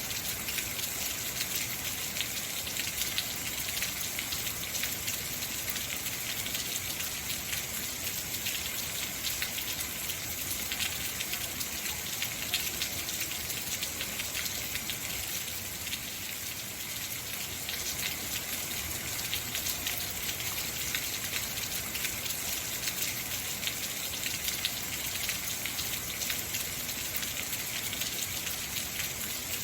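Heavy rain falling steadily: a dense, even hiss of countless drops, with fine taps of individual drops striking a hard surface.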